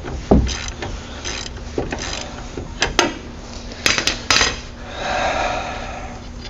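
Hand tools and metal parts clinking, knocking and scraping against each other as the axle nut is worked off the threads of the axle shaft: a string of sharp metallic clicks, a tight cluster of them about four seconds in, then a short rough scrape.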